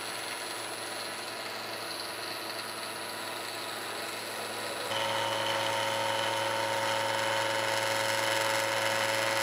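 Milling machine running; about five seconds in the cutter goes into the angle iron, and the sound gets louder with a steady ringing tone. This is chatter: the workpiece is vibrating in the vise during the cut.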